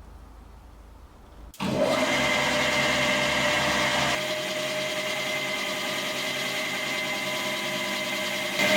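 An electric motor, such as a workshop power tool, switches on about a second and a half in and runs steadily with a high whine. It drops a little in level partway through and rises again near the end.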